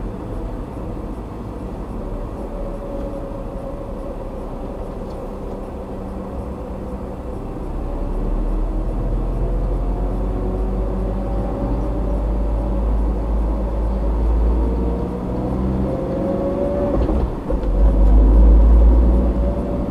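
Car driving on a road, heard from inside through a dashcam: steady engine and road rumble with an engine note that rises and falls, and a louder low rumble near the end.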